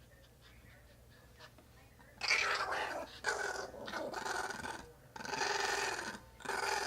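Riled-up Chihuahua making growling noises: after a quiet first two seconds, a run of four or five rough, pitched growls, each up to about a second long, with short breaks between them.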